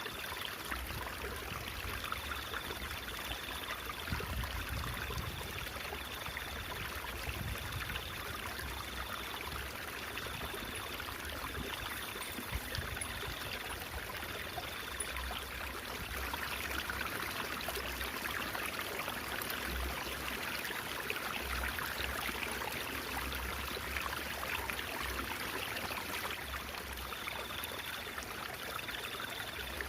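Stream water babbling and trickling steadily.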